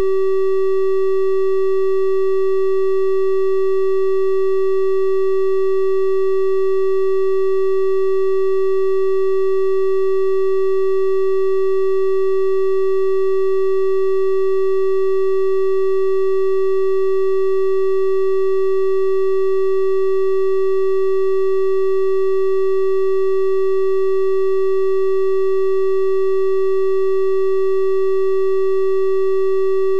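Synthesized 384 Hz triangle-wave tone held steady and unchanging, a pure-sounding hum with faint higher overtones.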